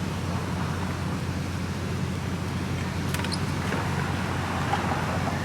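Steady traffic rumble and outdoor street noise, with a few faint clicks about three seconds in.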